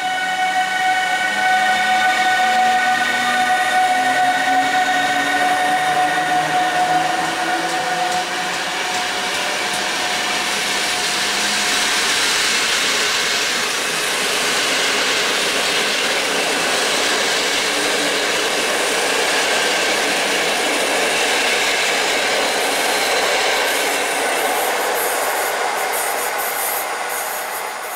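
Newag Griffin electric locomotive pulling away with a train: the whine of its traction drive rises in pitch over the first several seconds. Then the passenger coaches roll past with steady wheel-on-rail noise, which fades near the end.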